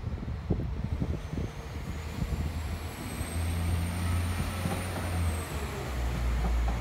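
Northern diesel multiple unit pulling away, its engine rumbling deep and growing louder about halfway through. A high whine rises and then falls off near the end, with a few knocks of wheels over track early on.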